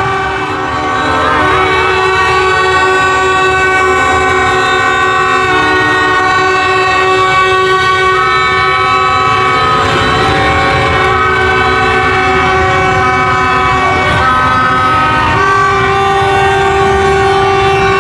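Many horns blaring at once in a celebrating street crowd, long held blasts at different pitches overlapping and changing, over a steady rumble of traffic.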